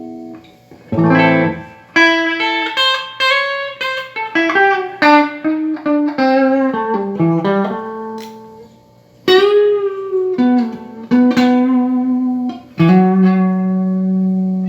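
Electric guitar played through a Yamaha T100C guitar amplifier, now working after repair: a single-note melodic phrase with held notes and a bent note about two-thirds of the way in, ending on a sustained chord near the end.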